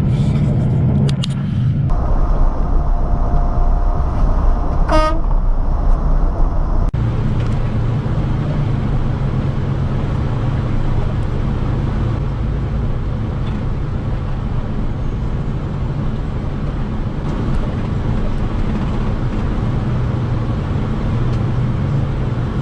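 Car horn honking over vehicle road noise: a held horn tone about two seconds in, then a short toot about five seconds in. After an abrupt change near seven seconds, steady low road and engine noise continues.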